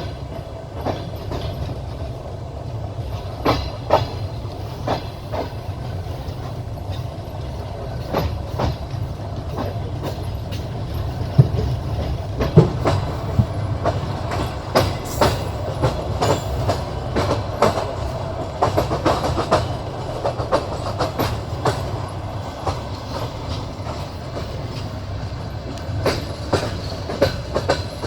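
Passenger train carriage wheels clattering over rail joints, with a steady low rumble of the running train and frequent irregular clicks and knocks.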